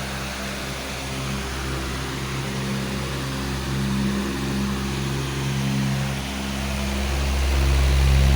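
Powerful electric fan running steadily: a continuous whoosh of moving air over a low motor hum, swelling slightly louder near the end.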